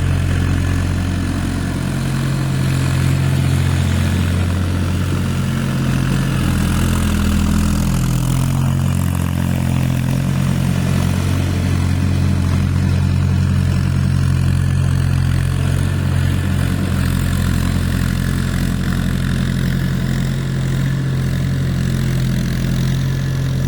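Mahindra tractor's diesel engine running steadily; its note dips briefly about seven seconds in, then settles again.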